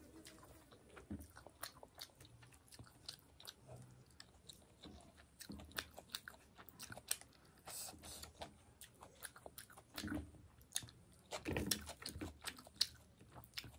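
Close-up eating sounds of a person chewing fish curry: irregular wet mouth clicks and smacks with small crunches, a few louder ones near the end.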